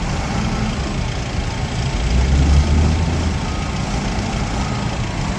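Diesel engine of a Nippon Sharyo DH408-95M crawler pile driver running with a steady low rumble, which swells louder for about a second, a couple of seconds in.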